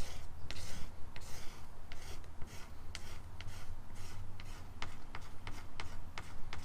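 Razor blade scraping dried plastic repair filler off a kayak's plastic hull: a series of short scraping strokes and sharp clicks, over a steady low hum.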